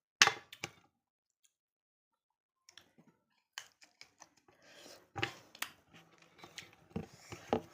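Close-miked eating sounds from a meal of mutton and rice: irregular sharp clicks and wet smacks with chewing. A sharp click comes just after the start, then about two seconds of near silence before the clicking and chewing resume.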